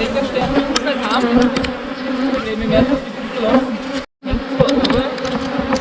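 A swarm of honeybees buzzing steadily around their knocked-over hives, a defensive swarm stirred up by the disturbance. The buzz breaks off for a split second about four seconds in.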